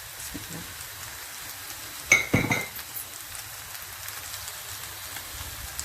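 Shredded chicken filling frying in a pan with a steady low sizzle, and a metal utensil clinks against the pan about two seconds in, ringing briefly.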